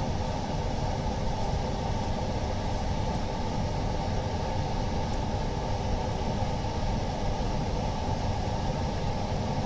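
A machine running with a steady hum and an even low tone, unchanging throughout.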